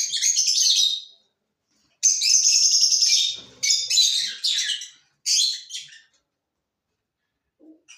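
Small cage birds in an aviary chattering in rapid, high, dense chirps, in several bursts separated by short pauses, fading to a few faint chirps near the end.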